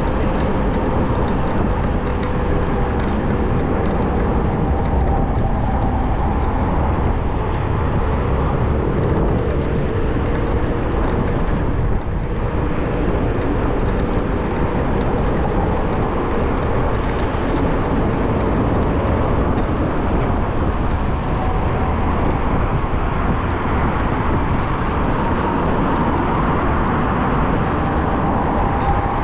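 Steady rush of wind on the microphone and road traffic while riding an electric bicycle, with a faint whine that drifts slowly in pitch.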